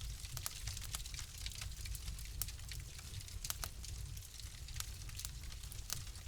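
Fireplace wood fire crackling: frequent irregular sharp pops and snaps over a steady low rumble and soft hiss.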